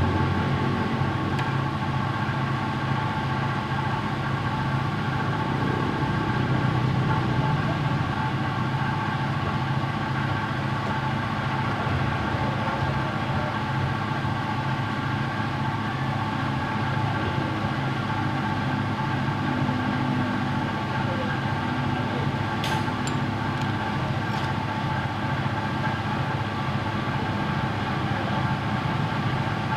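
An engine running steadily, with a few sharp clicks about three-quarters of the way through.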